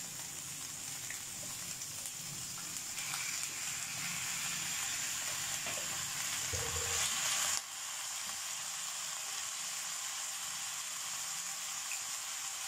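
Shredded cabbage, carrots and onion sizzling in a frying pan as they are stirred with a steel spoon. The steady hiss grows a little louder midway, then steps down suddenly about seven and a half seconds in.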